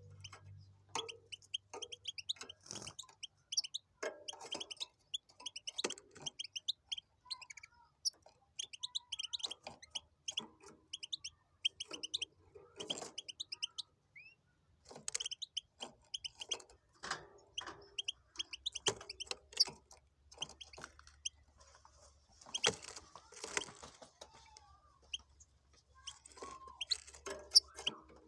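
Goldfinch × canary hybrid (a mule) singing in phrases of rapid, high, twittering chirps, with scattered sharp clicks and taps throughout.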